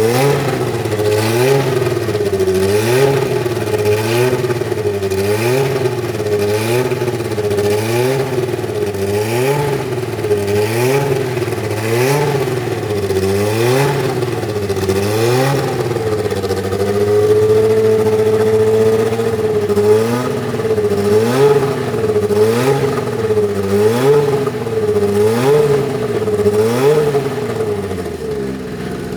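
Megatron 1.5-litre turbocharged four-cylinder engine of an Arrows A10 Formula 1 car being blipped over and over, the revs rising and falling about once a second. A little past halfway it is held at steady revs for a couple of seconds, and near the end it drops back toward idle.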